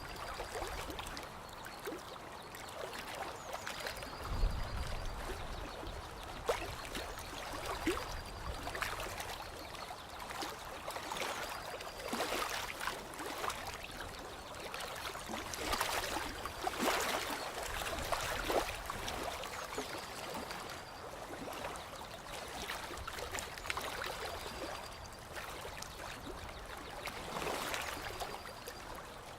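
Water trickling and lapping, with many small irregular splashes.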